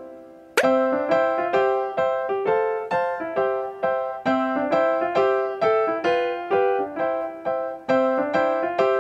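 Background music: a light keyboard tune of notes struck in a steady, bouncy rhythm. A held chord fades out, and the tune starts afresh about half a second in.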